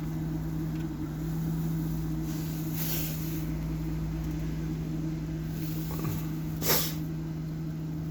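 A van's Webasto fuel-fired pre-heater running in deep frost, a steady mechanical hum, with two short hisses about three seconds in and near the end.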